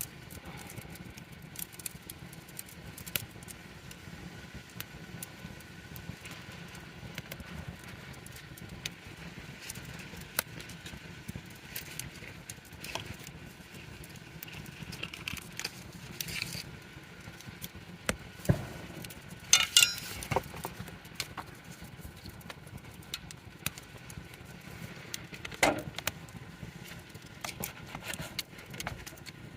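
Wood campfire in a fire stand crackling, with many small snaps over a low hiss and a few louder pops, the loudest cluster about two-thirds of the way through.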